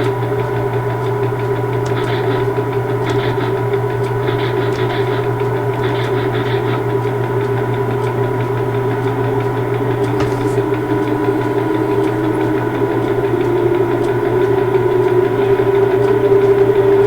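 Railway locomotive running at a standstill, a steady low hum with a held higher tone that swells slightly near the end.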